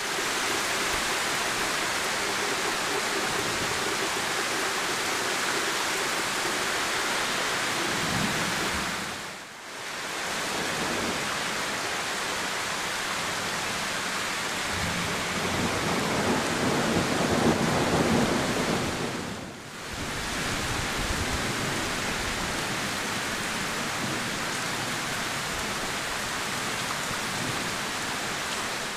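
Heavy rain pouring steadily on a leafy forest canopy, a dense hiss of falling water. It fades out and back in briefly twice, and about halfway through a low rumble swells and dies away.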